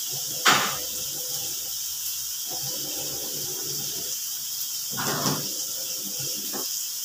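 Food sizzling in a hot wok, a steady hiss, with a few short louder bursts about half a second in and again around five seconds in.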